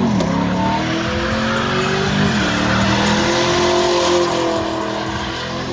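A car engine revving hard at high speed, its pitch rising and falling over and over, over the steady screech of spinning tyres: a car doing a burnout or donuts.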